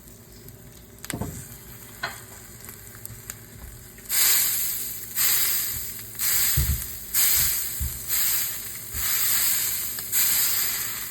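A fried egg sizzling in a pan. From about four seconds in, the sizzle rises in about seven loud hissing surges, roughly one a second, each starting sharply and fading.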